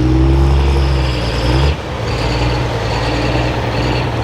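Diesel pickup truck engine running hard at a steady, loud pitch under load, then the throttle lifts abruptly about a second and a half in and the engine drops to a weaker, rougher running.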